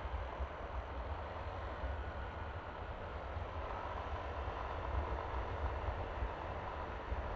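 Yamaha Aerox 155 scooter's single-cylinder engine running steadily under way, mixed with low wind buffeting on the microphone.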